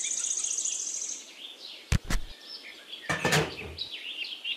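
Birds chirping, opening with a fast high-pitched trill that stops after about a second, with scattered short chirps after it. Two sharp clicks come about two seconds in, and a brief clatter about three seconds in as small toy parts are handled.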